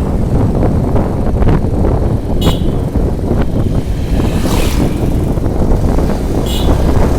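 Heavy wind rumble on the microphone with vehicle noise from a moving motorcycle. Three short high-pitched sounds break through, about two seconds apart.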